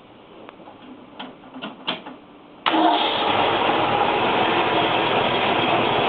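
A few light clicks, then about two and a half seconds in a 1967 Shelby's V8 fires abruptly and keeps running loud and steady.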